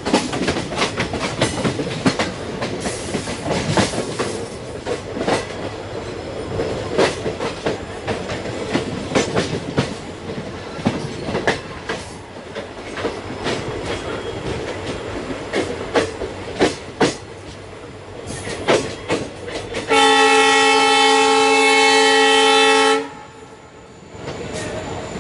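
Passenger coach wheels clattering over rail joints at speed, a steady run of clicks and knocks heard from the coach window. About twenty seconds in, a train horn blows once, loud and steady for about three seconds, then cuts off.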